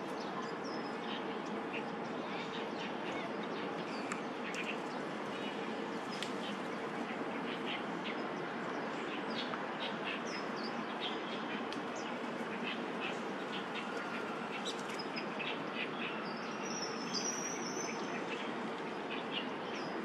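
Many short, high bird chirps scattered over a steady background hiss of outdoor ambience.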